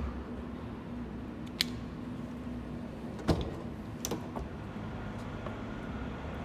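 Mercedes-Benz E320 coupe's M104 straight-six idling steadily while still cold after two years laid up, with a few sharp clicks or knocks over it, the loudest about three seconds in.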